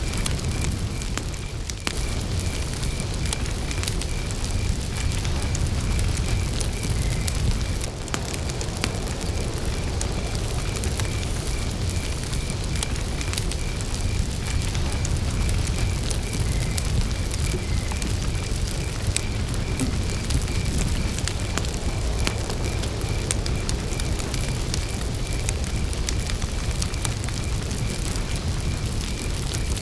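Wood campfire burning with a steady low rumble and frequent sharp crackles and pops. A cricket chirps steadily in a fast, even, high-pitched pulse.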